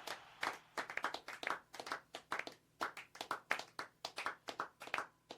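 Scattered hand clapping: separate, clearly distinct claps at about five or six a second, unevenly spaced, rather than a dense wash of applause.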